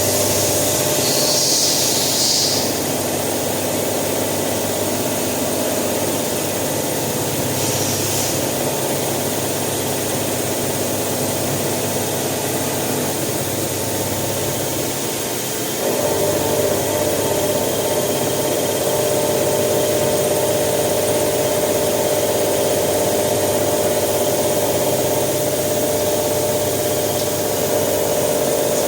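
Hitachi Seiki VM50 vertical machining centre roughing a steel mold block with a 35 mm cutter at 1000 rpm: a steady cutting and spindle sound with sustained tones. Brief hissing comes about a second in and again around eight seconds. From about halfway through, the cutting tone grows stronger.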